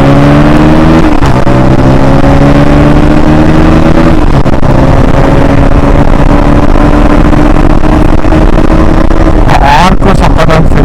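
KTM Duke 160's single-cylinder four-stroke engine accelerating hard. Its pitch climbs and drops sharply with upshifts about one and four seconds in, then rises slowly through a long pull in the higher gear. Near the end the revs fall away in a quick flurry of changes.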